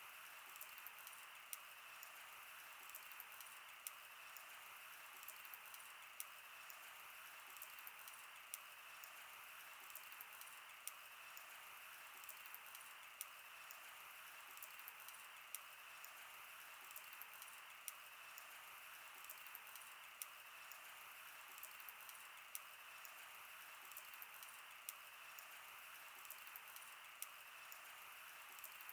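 Wood fire burning: a faint steady hiss with irregular sharp crackles and pops every second or so.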